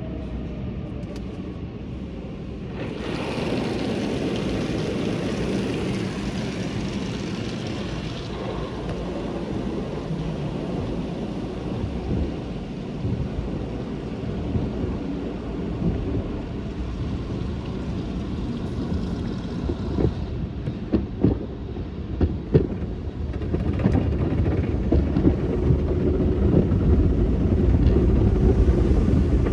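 Automatic car wash tunnel equipment running with a steady rumble. A hissing rush comes in about three seconds in and eases off around eight seconds, a few sharp knocks follow around twenty seconds, and the rumble grows louder near the end.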